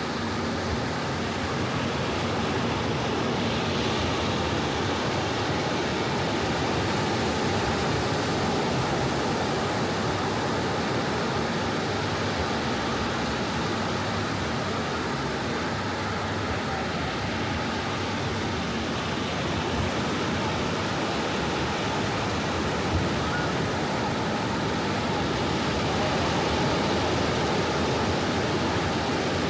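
Soft ocean waves washing onto a beach: a steady wash of surf noise that swells slightly and eases.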